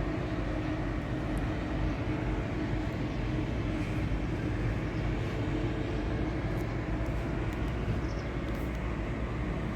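Steady low rumble of a vehicle in motion, with a faint steady hum on top and no clear change.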